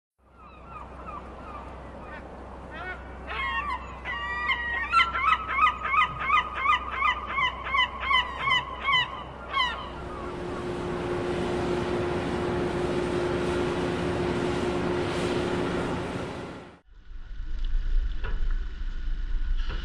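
A bird calling over and over in harsh, honking calls, quickening to about two a second in the middle, over a low rumble. About ten seconds in, a steady rushing noise with a low steady hum takes over. It cuts off suddenly near the end, leaving a low rumble.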